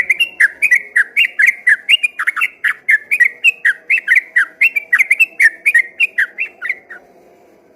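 Yellow-vented bulbul (trucukan) singing a long, fast run of loud whistled notes, about four or five a second, that stops about seven seconds in.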